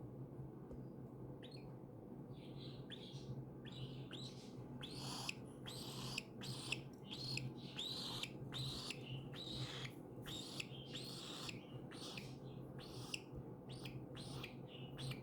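Baby cockatiel chirping, a long series of short calls that come sparsely at first and then close together from about five seconds in.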